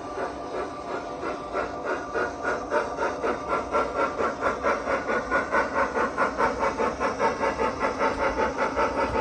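Sound-fitted O gauge model steam locomotive chuffing steadily, about three chuffs a second, getting louder and more regular about two seconds in as it runs along the layout.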